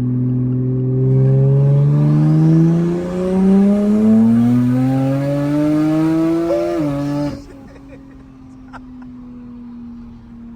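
Big-turbo Toyota Supra Mk5's B58 turbocharged straight-six pulling hard at full throttle, its pitch climbing steadily for about seven seconds with a brief break about three seconds in. The throttle then lifts and the sound drops abruptly to a low, steady drone.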